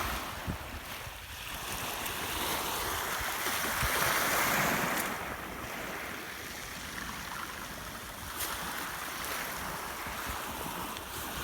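Black Sea waves washing onto the shore, swelling louder about three to five seconds in, with wind rumbling on the microphone.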